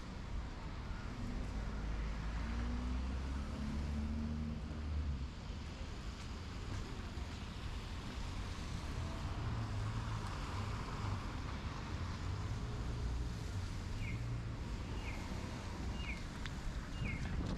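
Snowstorm street noise: steady wind and traffic, with a vehicle engine rumbling past near the start and again midway. From about 14 seconds in, a short electronic chirp repeats about once a second, like a pedestrian crossing's audible signal.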